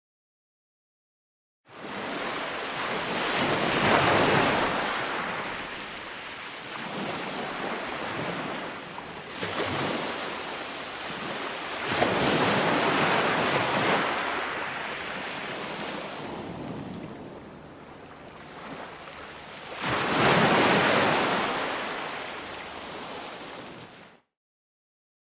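Ocean surf: waves breaking and washing back in slow swells, three surges about eight seconds apart. The sound drops out to complete silence at the start and again near the end.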